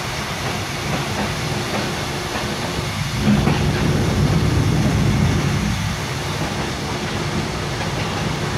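Running noise of a Mugunghwa-ho passenger train in motion, heard inside the carriage: a steady rush and rattle of the wheels on the track. A low rumble swells from about three seconds in and eases off about six seconds in.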